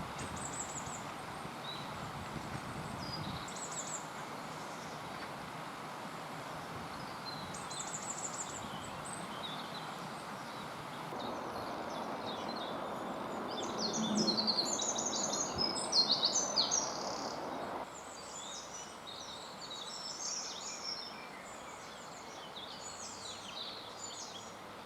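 Small birds calling and singing, with short high calls scattered through and a louder burst of rapid song about halfway through, over a steady rush of flowing water.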